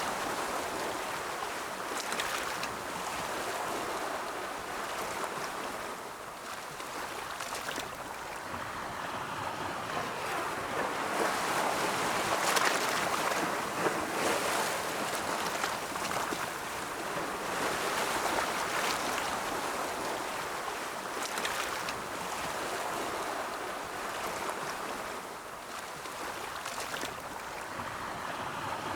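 Ocean waves washing onto a shore, a steady hiss of surf that swells and recedes every few seconds.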